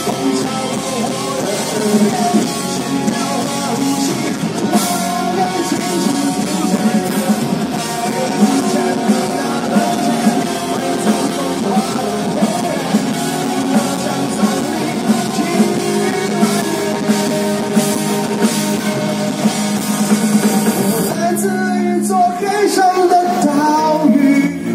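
Live rock band playing, with a drum kit, guitars and singing voices, loud and continuous; the sound thins and changes a few seconds before the end.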